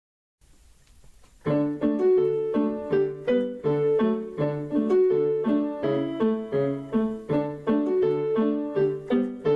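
Piano music: a tune of short, evenly paced repeated notes that starts about a second and a half in.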